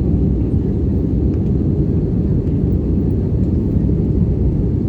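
Steady in-flight cabin noise of an Airbus A320-232: a low, even rumble of its IAE V2500 engines and the airflow over the fuselage, heard from inside the cabin.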